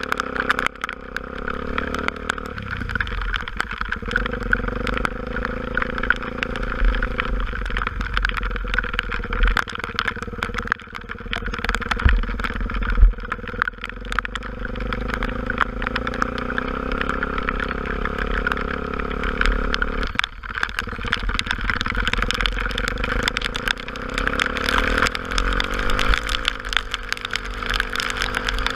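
Single-cylinder Honda XR250 Tornado motorcycle engine running steadily while riding. Two sharp knocks come near the middle.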